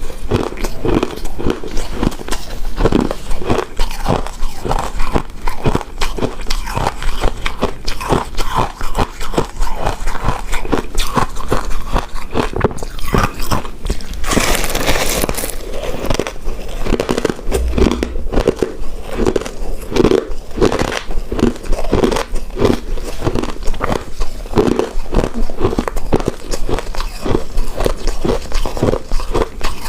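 Close-miked chewing and biting of a soft, chewy coconut-coated rice cake: wet mouth sounds, rapid and continuous. About halfway through there is a brief hiss-like noise.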